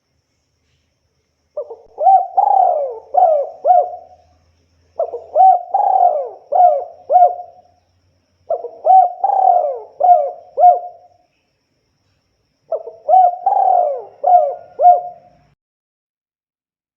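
Spotted dove (tekukur) singing its cooing song four times over. Each phrase opens with a short coo, then a longer rolling coo and three quick coos, with short pauses between phrases.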